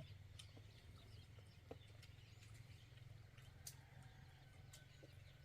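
Near silence: a low steady hum with a few faint clicks.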